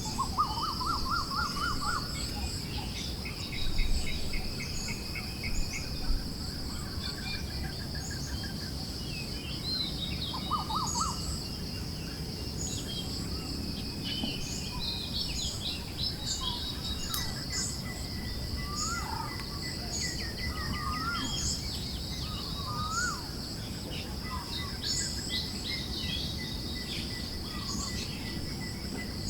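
Forest ambience: several songbirds calling with scattered short chirps, rising whistles and trills, over a steady high insect buzz and a soft low wind rumble.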